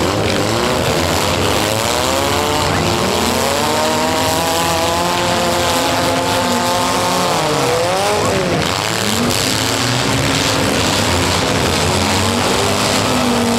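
Several compact cars' engines revving hard, their pitch climbing and falling again and again as the cars drive and ram in a demolition derby, over a constant din of other engines. One engine drops sharply and climbs back up about eight seconds in.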